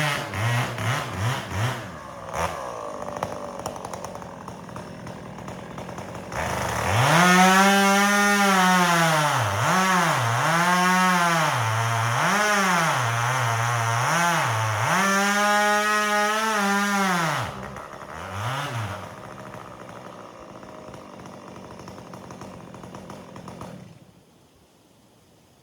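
A 362 two-stroke chainsaw revved in a few quick blips, then held at full throttle cutting firewood, its pitch dipping and recovering several times as the chain bites into the log. It drops back to idle and cuts off near the end.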